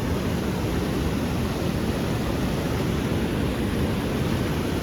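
Steady rushing of flowing stream water, an even roar with no breaks.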